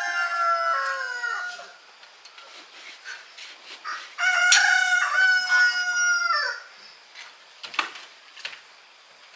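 A rooster crowing twice: a long call already under way that trails off about a second and a half in, and a second full crow from about four seconds in that drops in pitch at its end. A couple of faint clicks follow.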